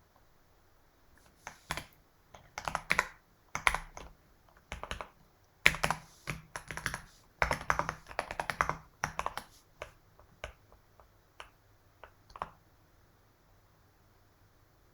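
Typing on a computer keyboard in several quick bursts of keystrokes, stopping a couple of seconds before the end.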